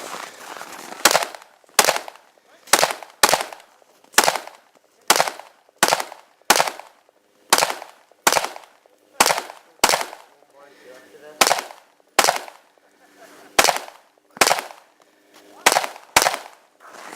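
A rifle fired in a string of about eighteen single shots, spaced from half a second to a second and a half apart, each shot with a short echo. There is a slightly longer pause around the middle.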